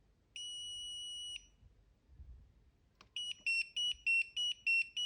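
Mr. NoStart RFID immobiliser's buzzer: one steady beep about a second long, then from about three seconds in a rapid alternating two-tone beeping, about three beeps a second. The alternating pattern signals that its tag memory has been wiped and is empty.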